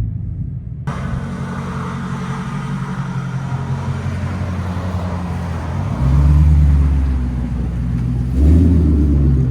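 Straight-piped 2022 Dodge Charger SRT Hellcat's supercharged 6.2L HEMI V8, with mid-muffler and exhaust valves deleted, running with a deep steady exhaust note, then rising into two louder throttle surges about six and eight and a half seconds in.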